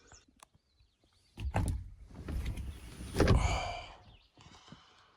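Knocks and handling noise, then a loud clunk about three seconds in with a brief metallic ring, as of a truck door or hatch being opened.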